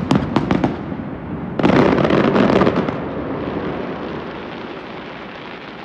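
Aerial fireworks going off: a quick run of sharp bangs, then about a second and a half in a loud, dense crackling burst that slowly fades away.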